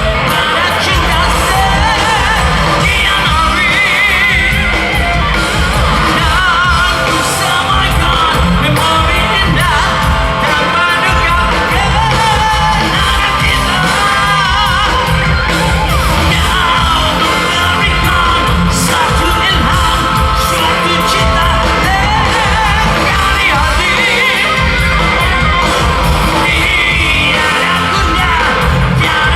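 Rock band playing live at full volume, with singing over the music and yells from the audience.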